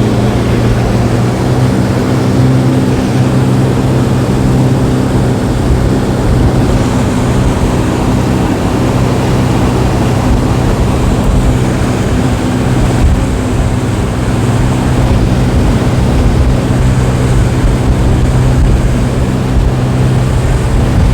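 Motorboat engine running at a steady pitch while under way, heard from on board, with a constant rushing hiss over it.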